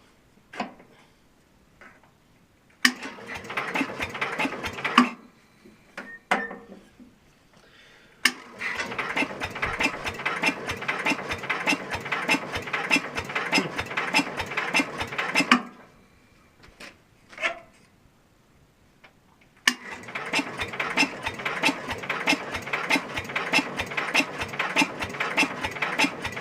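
Super 12 hydro garden tractor's engine turned over by its electric starter in three cranking attempts: a short one, then two of about seven seconds each, with short clicks between. It cranks evenly but never catches, for lack of spark.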